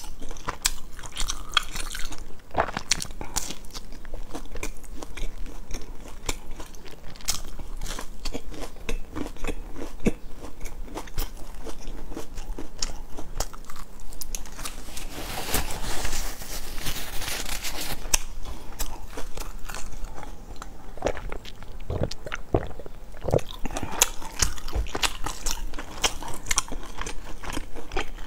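Close-miked biting and chewing of a large baked biscuit, with many small crunchy crackles and a denser stretch a little past halfway. The biscuit is one she says has lost its crispness after standing for two or three hours.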